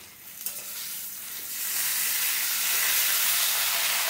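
Onion, garlic and cumin-ginger pastes sizzling in hot oil in a stainless steel kadai as they are stirred into taro and potato pieces with a metal spatula. The sizzle grows louder about a second and a half in and then holds steady.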